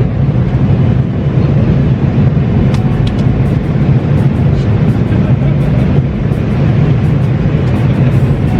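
Airliner cabin noise: the jet engines and rushing air make a loud, steady roar with a low hum underneath.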